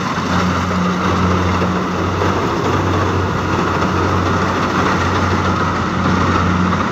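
Diesel engine of paddy-field farm machinery running steadily at constant speed: a deep, even hum under a broad rushing noise.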